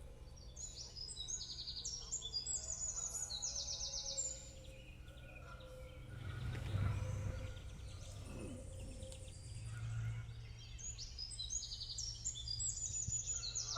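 A songbird singing twice, about ten seconds apart: each song is a string of quick trills at different pitches. A steady low rumble lies underneath.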